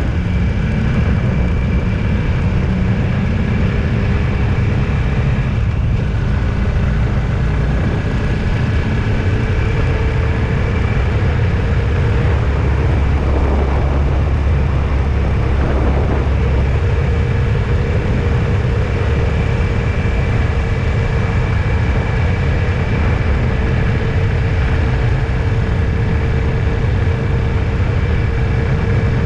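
A vehicle under way: a steady engine drone and low road rumble that hold level throughout, with a couple of steady whining tones.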